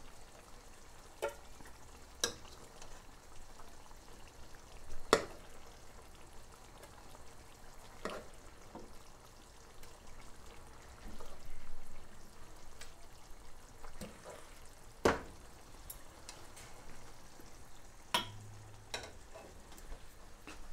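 Chicken and potato curry sizzling quietly in a non-stick karahi, with several sharp knocks of a steel ladle and pot against the pan, the loudest about five seconds in and another about fifteen seconds in.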